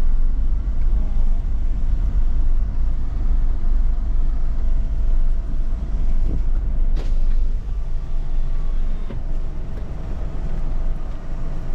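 Motor vehicle running, a steady low rumble with a faint steady tone over it and a single sharp click about seven seconds in.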